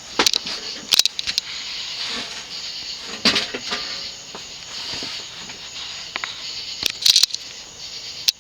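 Codep (View Fan) spinner ceiling fan with plexiglass blades running, a steady airy hiss. Several sharp clicks break in: just after the start, about a second in, around three seconds in, and twice near the end.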